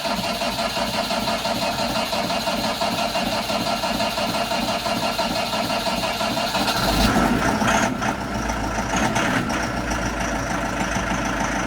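New Holland T5 diesel tractor engine being cold-started after its glow plugs have warmed: the starter cranks it for several seconds, then about seven seconds in the engine catches with a low rumble and keeps running.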